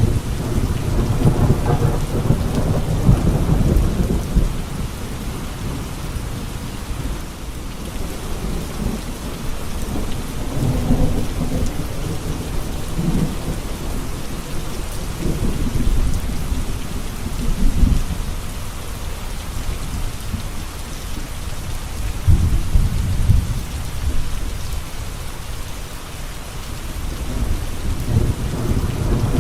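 Steady heavy rain with low rumbles of thunder that swell and fade several times.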